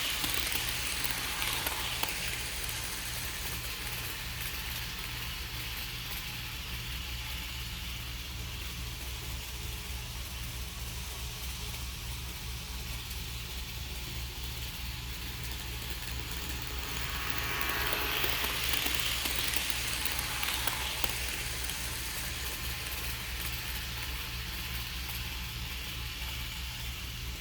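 HO scale model train running around the track, its small motor and wheels making a fine rhythmic whirring that swells twice as the train comes by, near the start and again about two thirds of the way through. A steady low hum runs underneath.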